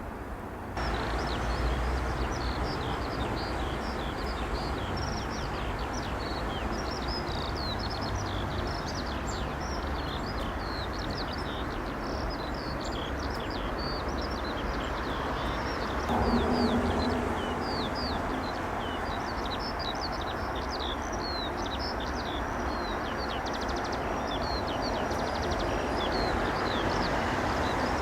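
Many small birds chirping busily and continuously over a steady low rumble, which swells briefly about halfway through.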